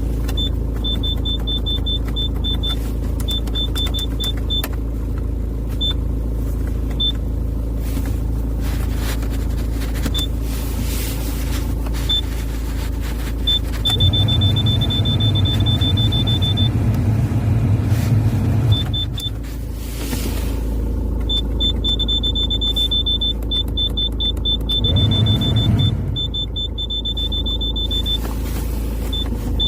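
2004 Hyundai Santa Fe engine running steadily with a low hum. It grows louder for about five seconds midway and briefly again near the end. Short runs of a high-pitched electronic beeping come and go over it.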